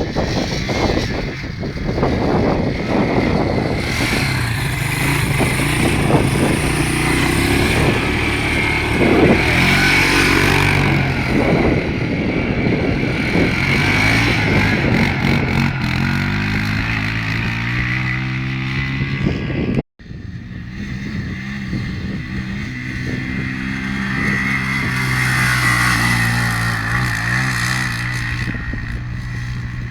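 Quad bike engine running as it is ridden, its pitch rising and falling with the throttle. The sound cuts out for an instant about two-thirds of the way through.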